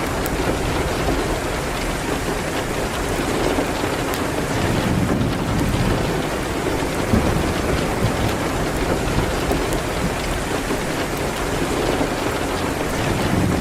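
Steady rain hitting a window, a dense even patter with a low rumble beneath it, mixed with faint crackling of a wood fire in a fireplace.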